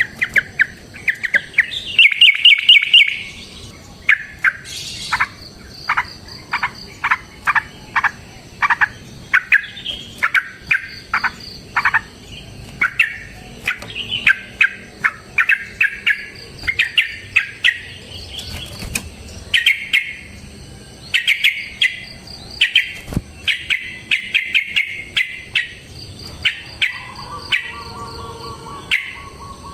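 Sooty-headed bulbul (trucukan) singing a long, continuous fighting song of quick, bright chirping notes and rapid trills. The song is meant to provoke other bulbuls into answering.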